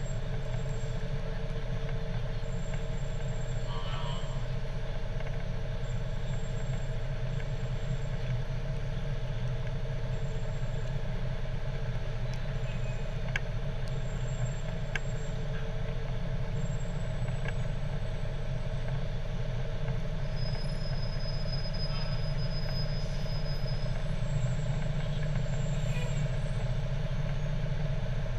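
Fire truck engine running with a steady low drone, a few faint clicks and a short high tone partway through.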